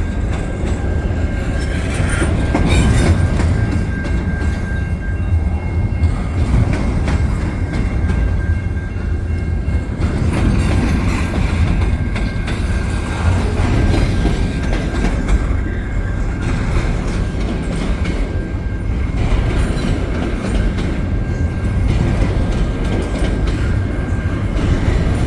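CN double-stack container train's cars rolling past, a steady heavy rumble with wheels clacking over the rail joints and a thin steady high whine.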